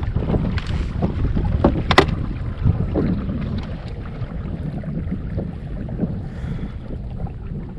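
Wind buffeting the microphone on a kayak, a steady low rumble, with several sharp knocks and clicks from the boat in the first two seconds, the sharpest about two seconds in.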